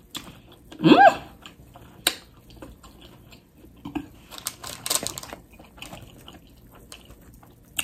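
Close-up chewing and wet mouth sounds of someone eating sauce-covered loaded fries with shredded lettuce and pickles, with a short hummed "mm" about a second in and a few sharp clicks.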